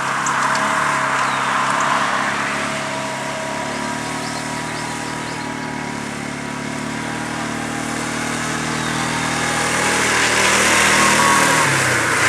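A four-wheeler towing an old Toro pull-behind lawn mower, their small engines running steadily under load as it cuts through wet grass. It grows louder in the last few seconds as it comes closer.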